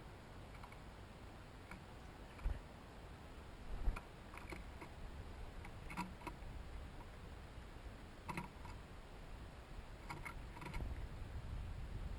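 Scattered short taps and clicks, irregular and a second or two apart, typical of small birds and chipmunks landing on and feeding at a hanging seed feeder. Low wind rumble on the microphone swells near the end.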